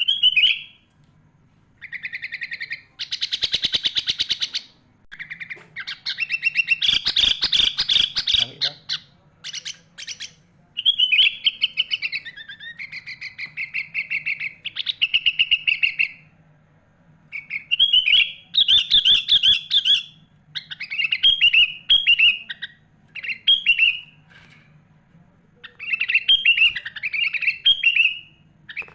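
Sooty-headed bulbul (kutilang) singing: repeated bright, chattering song phrases a second or two long with short pauses between, some of them harsh rapid rattles.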